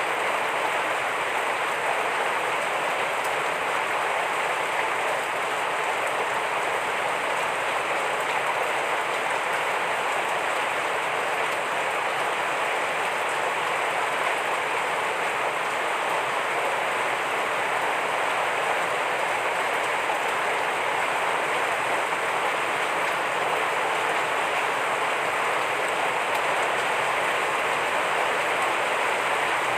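Heavy rain falling steadily, an even unbroken hiss with no separate drops or thunder standing out.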